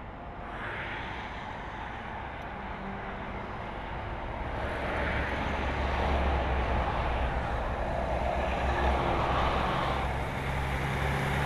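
Volvo FH16 700 heavy truck driving, its 16-litre straight-six diesel and tyres making a steady low engine noise that grows louder about five seconds in.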